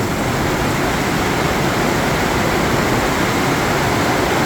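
Rain hitting a greenhouse in a storm, heard from inside it as a steady, loud hiss.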